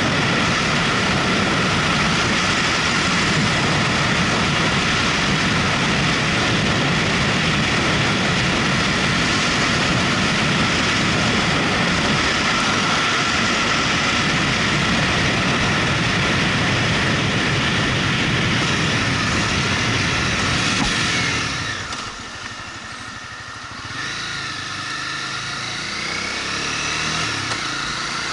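Motorcycle running on the road with heavy wind noise. It goes quieter for a couple of seconds about three quarters of the way through, then the engine pitch climbs as it pulls away again near the end.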